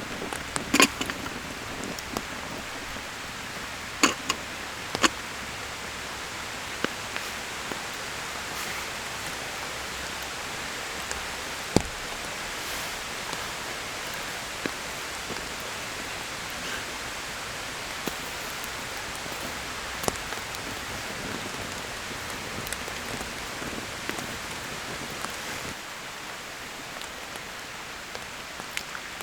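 Steady rainfall hissing, with a few sharp ticks of single drops or small knocks now and then.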